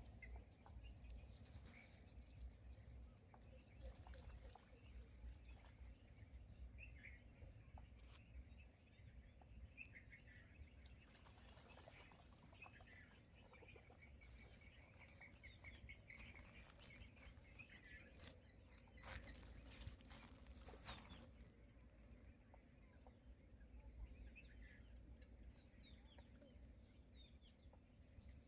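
Faint birds chirping and calling now and then, over a steady low outdoor rumble. About two-thirds of the way through there are a couple of seconds of louder crackling noise.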